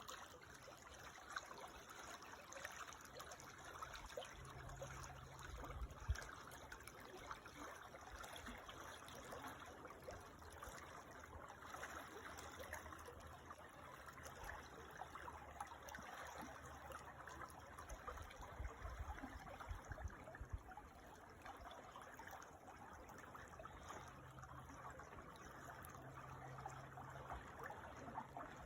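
Creek water trickling and babbling steadily, quiet and even.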